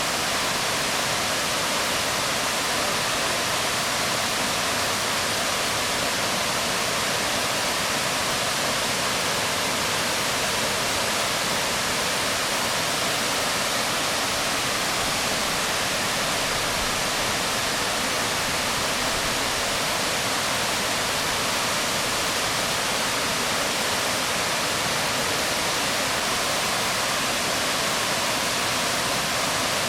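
Waterfall pouring onto rocks: a steady, even rush of falling water with no breaks.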